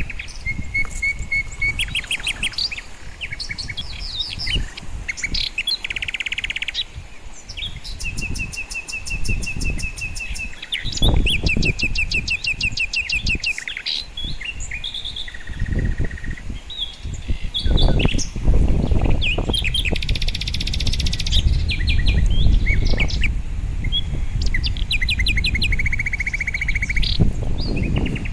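Small birds chirping and trilling, with many quick calls and fast trills one after another, over a low rushing noise that grows louder in the second half.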